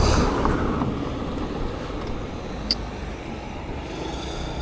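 Steady low rumble and hiss of road traffic and wind, loudest at first and easing off, with one short high click a little past the middle.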